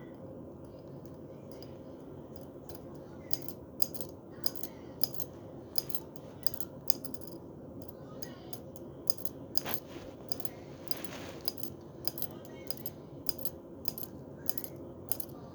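Female cicada flicking her wings: a run of sharp, irregular clicks, about one or two a second, starting about three seconds in, over a steady low hum.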